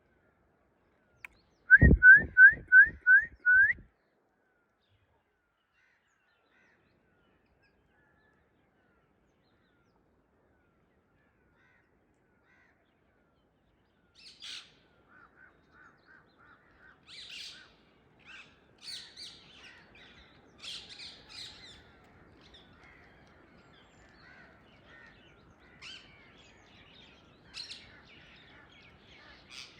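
Rose-ringed (Indian ringneck) parakeet giving a loud run of six quick calls, each rising in pitch. After a long gap, a scatter of fainter chirps and calls from several birds.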